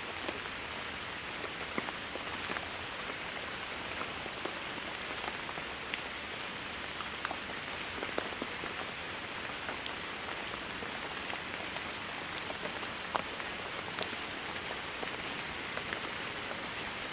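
Steady rainfall: an even hiss of rain with individual drops ticking sharply here and there, a few louder drops standing out, about two-thirds of the way through.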